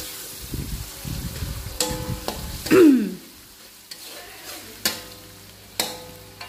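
Spice paste of shallots, garlic and chilli frying in oil in a wok, stirred and scraped with a metal spatula. The spatula knocks against the wok three times with a short metallic ring. About three seconds in comes a brief falling tone, the loudest sound.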